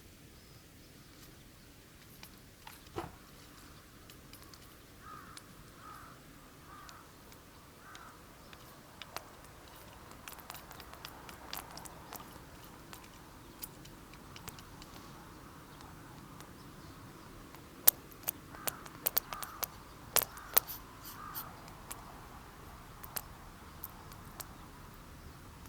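A bird calling in short repeated calls, in two groups, with scattered sharp clicks and crackles, most of them in the second half.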